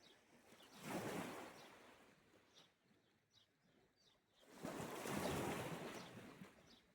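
Small sea waves washing onto the shore twice: one rush of surf about a second in and a longer one from about four and a half seconds, each swelling and then fading away. Faint bird chirps are heard between them.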